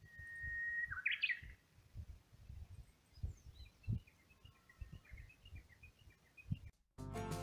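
Wild birds singing: a long, steady whistled note breaks into a quick warbled flourish, followed by a run of short, thin chirps. Guitar music comes in just before the end.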